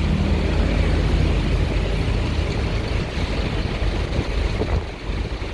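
A steady low engine rumble, like a heavy vehicle or machine running.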